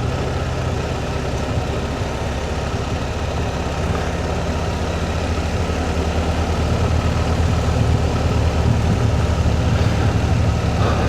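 Motorcycle engine running at low, steady revs on a steep downhill, with wind and road noise; the engine note grows a little louder about six or seven seconds in.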